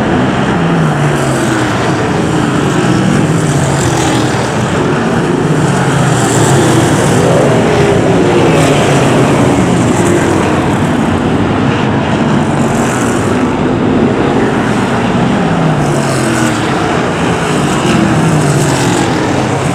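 A pack of BriSCA F1 stock cars' V8 engines racing, loud throughout. Several engines overlap, their pitch repeatedly climbing and falling away as the cars accelerate and pass.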